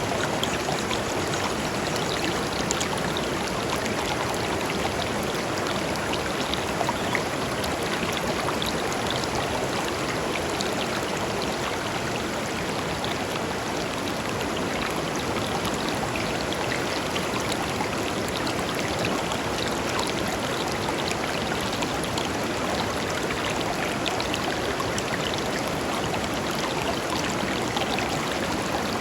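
A shallow river flowing steadily over stones, a continuous rush of water dotted with small splashes and trickles.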